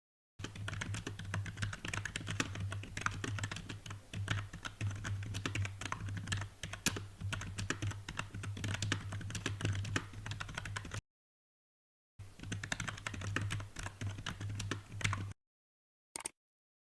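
Rapid typing on a computer keyboard: a dense, irregular run of key clicks over a steady low hum. It cuts off abruptly about eleven seconds in, resumes a second later for about three seconds, and ends with one brief click near the end.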